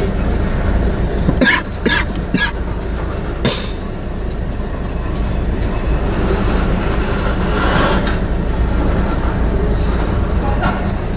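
Freight train's covered hopper cars rolling past: a steady rumble of steel wheels on rail, with three sharp clanks between about one and a half and two and a half seconds in.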